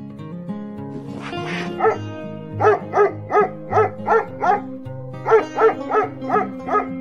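A dog barking in two quick runs of short barks, about three a second, over background music.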